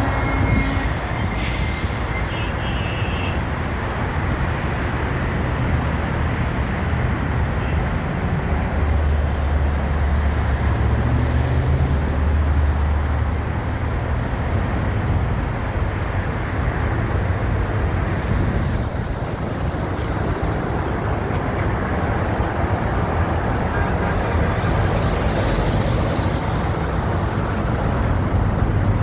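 Heavy truck traffic on a road: a steady wash of engine and tyre noise, with a deep engine rumble swelling about a third of the way in and a burst of hiss near the end.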